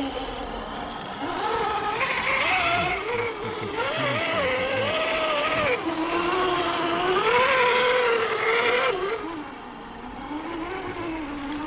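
Electric motor and gearbox of an RC scale crawler truck whining, the pitch rising and falling with the throttle. It is loudest through the middle and eases off about nine seconds in.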